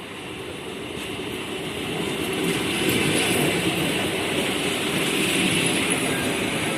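EP3D electric multiple unit pulling into the station, its running noise growing louder over the first three seconds and then holding steady as the cars pass.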